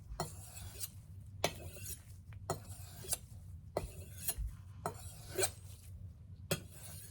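Steel chef's knife blade stroked back and forth on a sharpening stone, a series of short scrapes at about three every two seconds.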